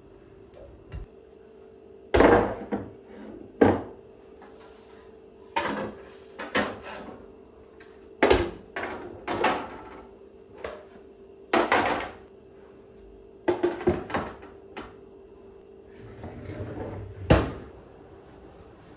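Household things being handled and set down: an irregular series of about a dozen knocks and clatters, over a faint steady hum.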